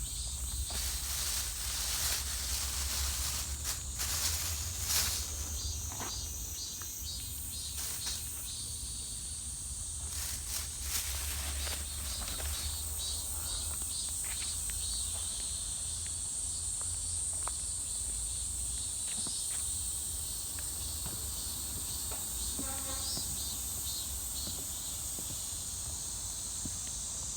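Steady high-pitched chorus of insects, crickets, trilling without a break, with scattered clicks and rustles of footsteps on the forest floor, mostly in the first half.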